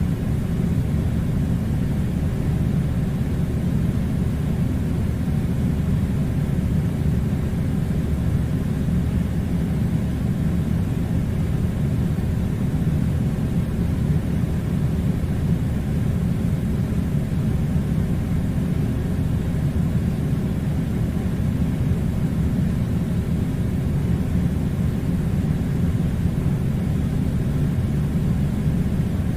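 Steady low droning rumble of machine-like noise, even and unbroken, with no separate events in it.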